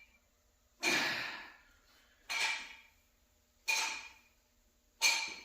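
Four sharp, quickly fading sounds about a second and a half apart, one with each rep of a close-grip barbell bench press warm-up set.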